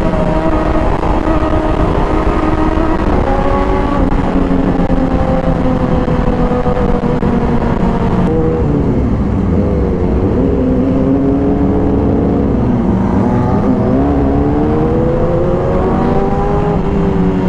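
Sport motorcycle engine heard from on board while riding, its note rising and falling as the rider works the throttle and gears: it eases off and dips around the middle, then climbs steadily and drops again near the end. A low wind rumble on the microphone runs underneath.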